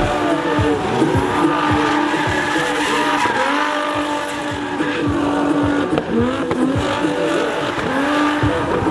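Drift cars on track: engines revving up and down over and over, with tyres squealing through long slides.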